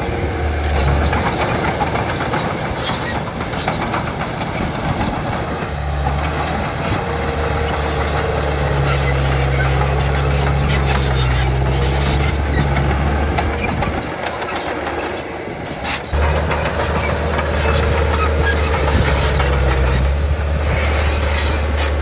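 Bulldozer working: its diesel engine runs under load with a steady low drone, over the clatter of its steel tracks. The engine note drops away for a couple of seconds about two-thirds of the way through, then comes back.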